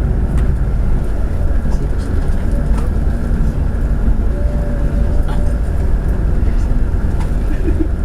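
Steady low rumble of a Scania K360iB coach bus underway, with faint scattered knocks and rattles.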